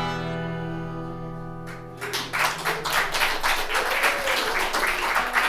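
The band's final chord, led by guitar, rings out and fades for about two seconds. Then an audience breaks into applause, which carries on steadily.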